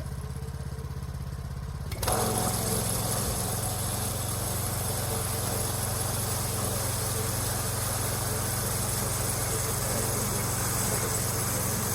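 A small gas engine running steadily. About two seconds in it suddenly gets louder and harsher, then holds at that level.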